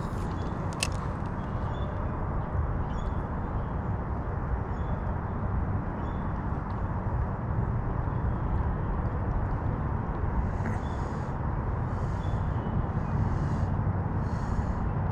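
Steady outdoor background rumble, heaviest in the low end, with faint short high chirps recurring about every second and a half and a few brief high buzzy sounds near the end.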